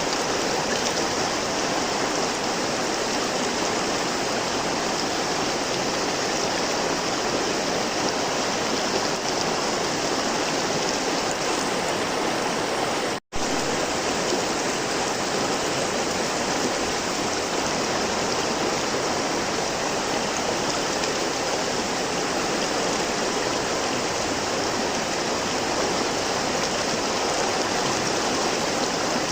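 River water flowing in a steady, even rush. About halfway through, the sound cuts out for a split second and then resumes, as at a splice in the recording.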